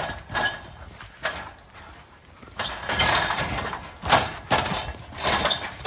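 Sika deer moving about inside a box trap, with irregular knocks and scuffs, under strong wind buffeting the microphone.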